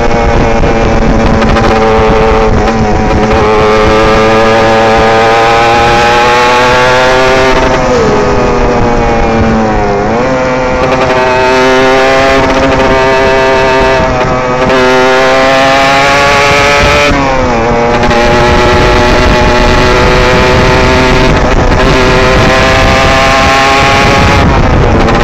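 Derbi GPR 125 motorcycle engine heard onboard, running at high revs with wind noise. Its pitch drops and climbs again several times as the throttle is rolled off and reopened, with one longer fall and rise about eight seconds in.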